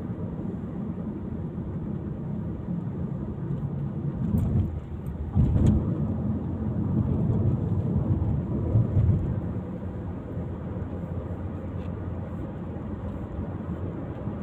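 Steady low rumble of a car driving, engine and road noise, swelling louder for a moment about five and a half seconds in and again around nine seconds.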